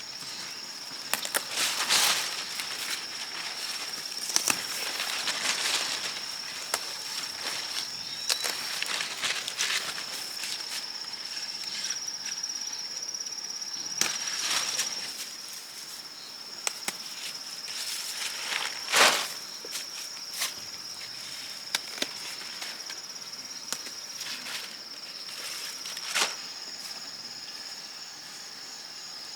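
Steady high-pitched drone of insects, with scattered sharp clicks and knocks from handling or work close by; the loudest knock comes about 19 seconds in.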